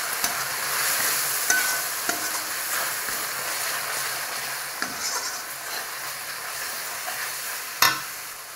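Onion and ginger-garlic-cumin paste with turmeric sizzling in hot oil in a kadai while a steel fork stirs and scrapes it around the pan. Near the end the utensil strikes the pan with one sharp clink.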